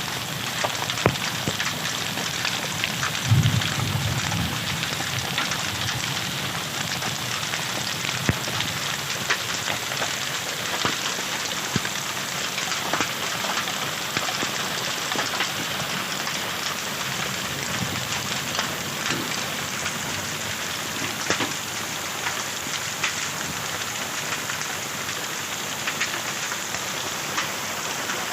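Heavy rain with hail, a steady wash of falling water with many sharp ticks of hailstones striking hard surfaces. A brief low rumble comes about three seconds in.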